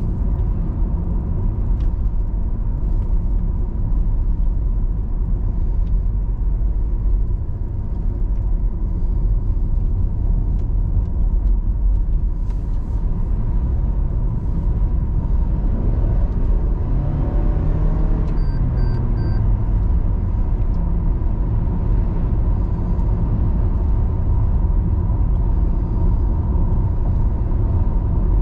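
Steady low rumble of a car's engine and tyres on the road while driving, with a faint steady whine throughout. About seventeen seconds in, an engine note rises and then falls away, and a few short faint high beeps follow.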